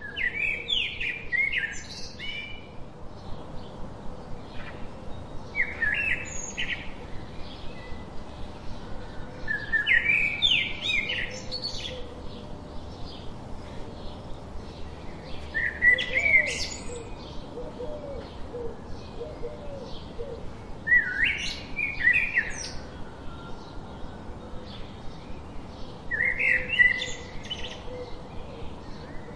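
A songbird singing short, quick chirping phrases, one about every five seconds, over a steady background hiss with a faint regular pulse.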